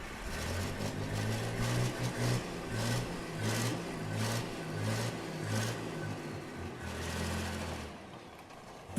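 A stunt vehicle's engine revving in repeated bursts, held more steadily near the end before dropping away about eight seconds in.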